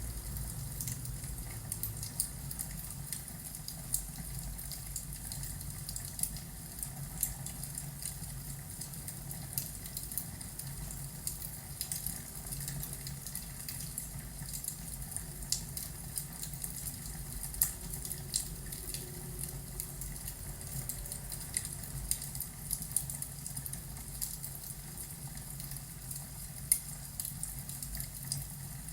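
Crackling fireplace: a wood fire snapping and popping in irregular small clicks, over a low steady hum.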